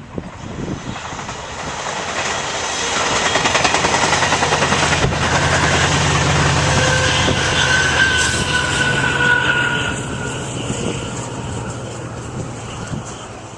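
A train passing: engine and wheels on the rails build up about two seconds in, stay loud for several seconds, then fade away. A steady whine sounds through the loudest part.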